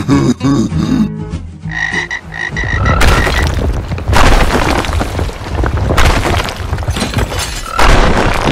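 Cartoon frog croaks with gliding pitch and a quick run of high beeps, then loud crashing and crumbling sound effects of stone statues shattering, with fresh crashes every second or two.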